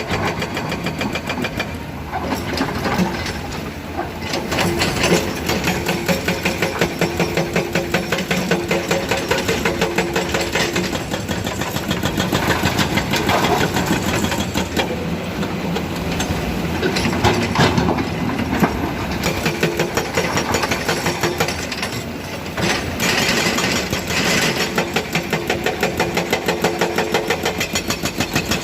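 Komatsu PC200 excavator's diesel engine running under working load with a fast firing beat, its level rising and easing as the machine works.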